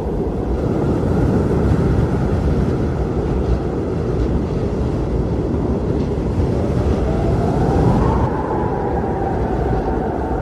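Blizzard wind blowing hard in a steady low rush; from about seven seconds in, a howling whistle rises in pitch and then eases slightly lower.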